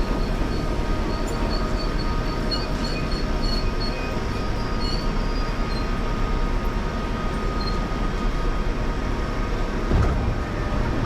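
Fujikyu 6000 series electric commuter train pulling into the platform, its running noise steady, with short high wheel or brake squeals in the first few seconds and a thump about ten seconds in.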